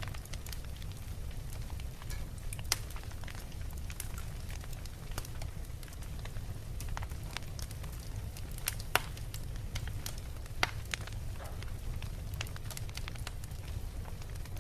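Beach bonfire crackling, with irregular sharp pops and snaps, a few louder cracks among them, over a low steady rumble.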